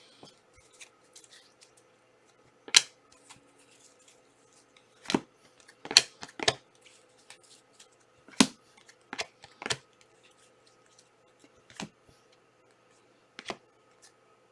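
Trading cards and their plastic packaging being handled: a series of about eight sharp snaps and short rustles, a second or two apart.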